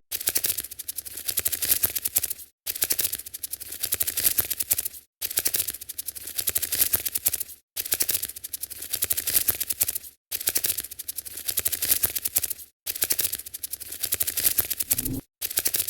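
Looped sound effect of rapid, dry clicking, a skittering patter for a cat to chase. It repeats in blocks of about two and a half seconds, each ending in a brief cut to silence, six times over.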